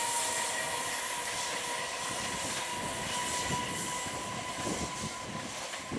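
Indian Railways EMU local train running toward the listener on electrified track: a steady rolling noise with a steady high tone over it.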